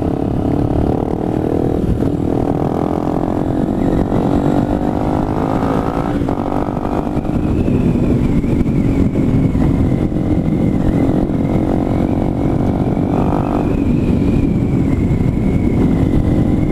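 Motorcycle engine running steadily while riding, its pitch drifting gently up and down with the throttle, over heavy wind rumble on the microphone.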